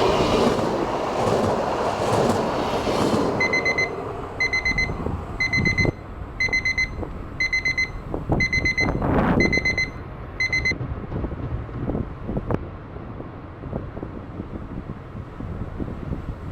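Electronic warning beeper sounding eight evenly spaced beeps, about one a second, over a rumbling background that fades during the first few seconds.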